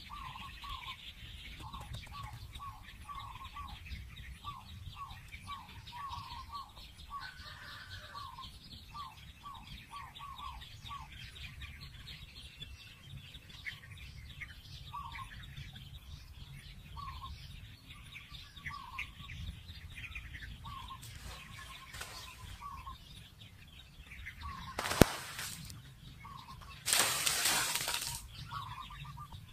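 Birds chirping and calling, a short note repeated two or three times a second at first and more sparsely later, over higher chirps. A single sharp knock sounds about 25 seconds in, and a loud rushing noise lasts about a second and a half near the end.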